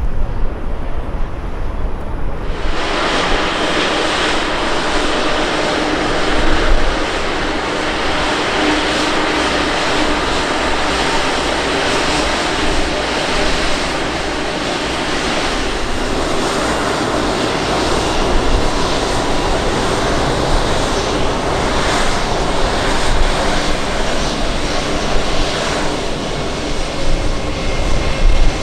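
Airplane engine noise, loud and steady, starting abruptly about two and a half seconds in after a low rumble, with faint steady whining tones in it.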